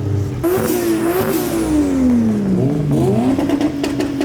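A modified car's engine revving hard as it pulls away. Its note climbs, then slides down for over a second, then rises again, with a run of sharp cracks about three seconds in.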